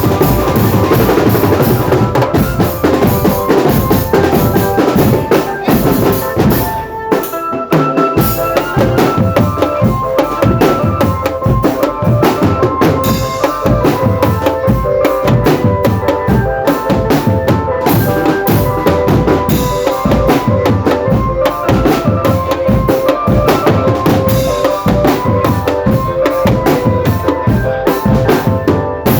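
Marching drum band playing: snare and bass drums beating steadily and densely under a held melody line. The music briefly thins about seven seconds in, then carries on.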